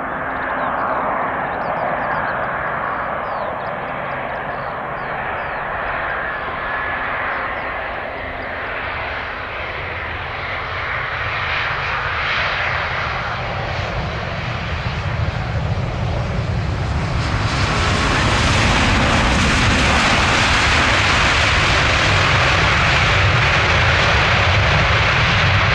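Airbus A350's Rolls-Royce Trent XWB jet engines on a landing, a steady rushing jet noise that grows louder and brighter as the aircraft comes closer. About 18 seconds in it swells into a louder, fuller roar with a deep rumble underneath.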